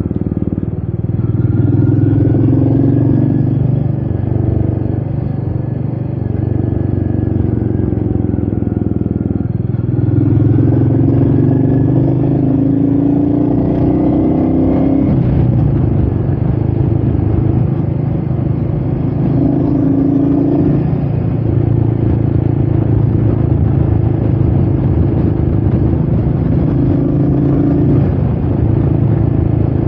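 Royal Enfield Meteor 350's single-cylinder four-stroke engine running under way, its pitch rising and falling several times as the throttle and speed change, with wind noise on the microphone.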